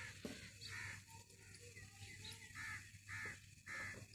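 A bird calling faintly with short, harsh calls: one about a second in, then three in quick succession near the end.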